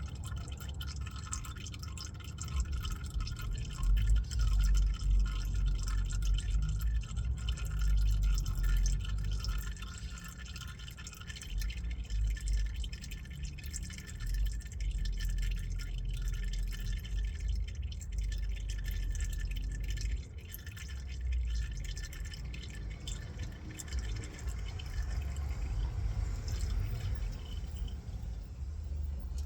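Motor oil trickling and dripping into a pan during an oil change, over an uneven low rumble.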